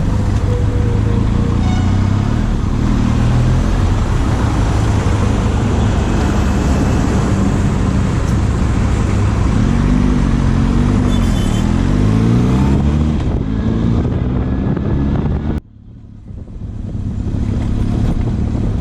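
Benelli motorcycle being ridden, its engine running under heavy wind noise on the microphone. The engine pitch rises and falls repeatedly around the middle as the throttle changes. The noise cuts out suddenly about three-quarters of the way through, then builds back up over a couple of seconds.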